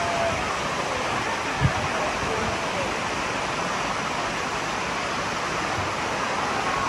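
Water rushing steadily down the cascades of Dunn's River Falls, with a single low thump about a second and a half in.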